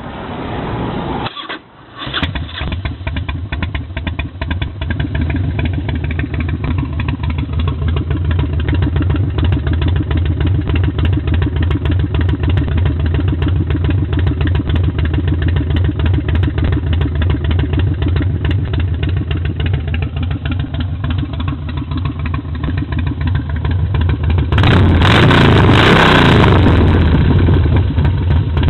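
Motorcycle with a Tailgunner aftermarket exhaust starting up near the beginning, then idling steadily with rapid, even firing pulses. About 25 seconds in it is revved briefly, rising and falling back to idle.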